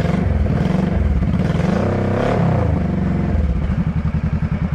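Honda Shadow VT1100C's carbureted 1100cc V-twin running through aftermarket Cobra long-shot style exhaust, blipped once about two seconds in, its pitch rising and falling, then settling back to a pulsing idle.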